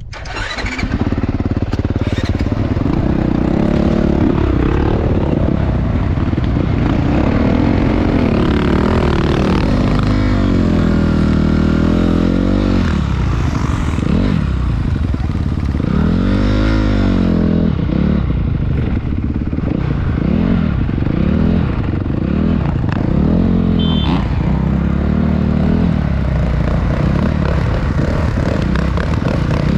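Motocross motorcycle engine revving up and down again and again. Its pitch climbs and drops in long sweeps at first, then in quicker swells in the second half.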